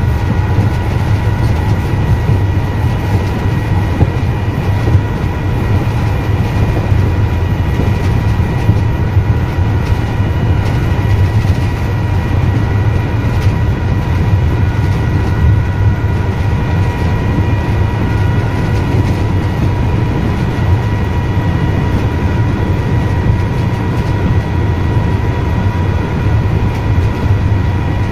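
Train running steadily along the line, heard from the driver's cab: a loud, even rumble of wheels on rail with a constant high hum over it.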